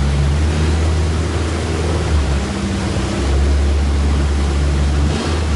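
A tour boat's motor running steadily with a low hum, over rushing wind and water noise.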